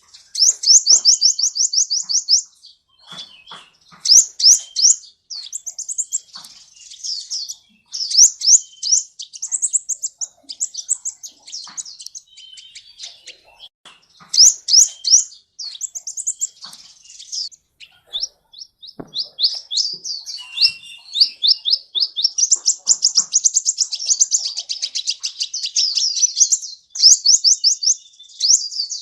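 Sunbird song (the 'kolibri' of Indonesian bird-keeping): rapid, high trills of short up-sweeping notes in phrases a second or two long, separated by brief gaps, running almost without pause in the second half.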